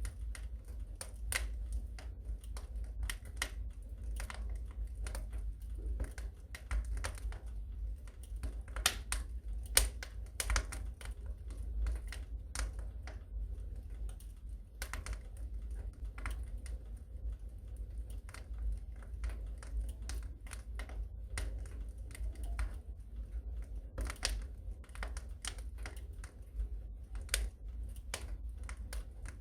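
Wood fire burning in a fireplace, crackling with a dense run of irregular pops and snaps over a steady low rumble.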